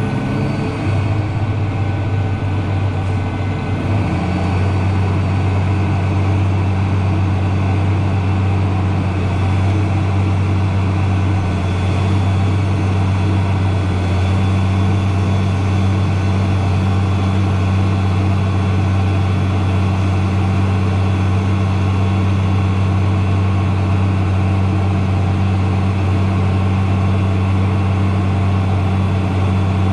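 Tractor engine running steadily with a deep, even hum; its note steps up slightly about four seconds in and then holds.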